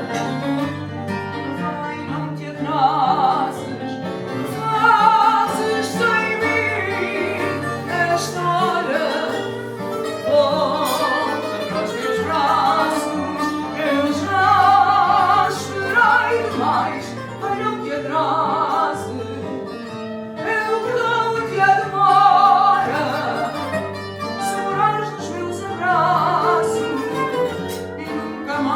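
Live fado music: a voice singing long, wavering notes over guitar accompaniment.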